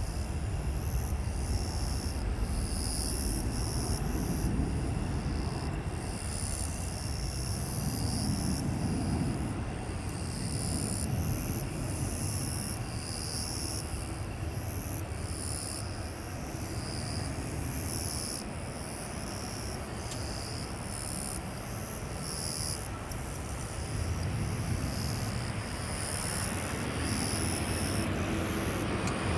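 Distant jet engines of a Boeing 737-800 giving a steady low rumble that swells and fades a little, starting to grow louder near the end, with a high pulsing chirp above it.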